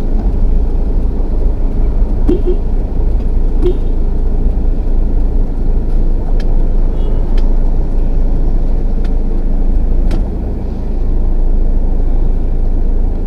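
Dump truck engine running steadily while driving, a loud low drone with a few light clicks and short squeaks over it. The drone eases off slightly about ten seconds in.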